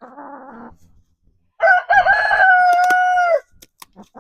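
A rooster crows once, a long call that rises in steps, holds and falls away at the end, starting about a second and a half in. It is the loudest sound here, and it is led by a short rough sound at the very start.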